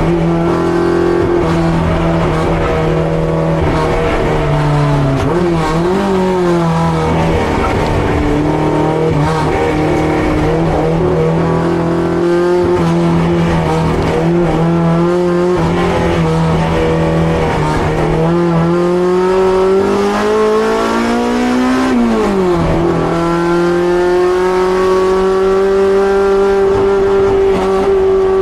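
Honda Civic EG6's B18C four-cylinder engine running hard on track. The revs fall at the start and hold steady for a long stretch. Near the end they climb over a few seconds, then drop sharply as at a gear change.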